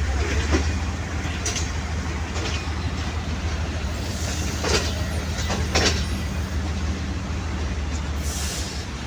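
Moving passenger train heard from on board: a steady low rumble, with several short knocks of the wheels over rail joints.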